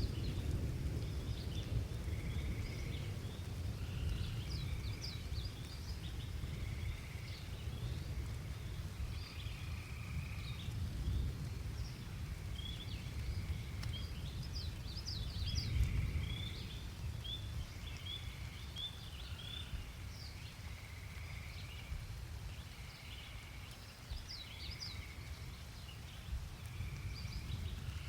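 Birds chirping and whistling over a low rumble of distant thunder, which swells about halfway through and then fades.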